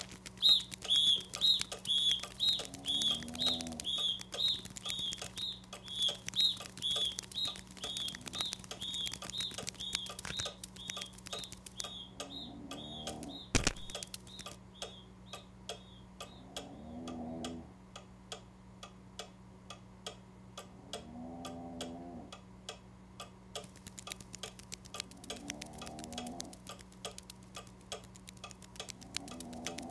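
Cartoon sound effects for worker ants carrying sugar cubes: a quick series of short high chirps, about two a second, through the first half, and low warbling calls every few seconds. A faint, steady ticking runs underneath, with one sharp click about halfway through.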